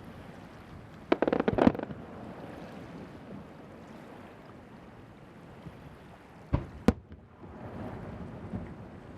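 Fireworks bursting over the sea: a quick string of crackling pops about a second in, then two sharp bangs a third of a second apart near the end, over a steady rush of surf and wind.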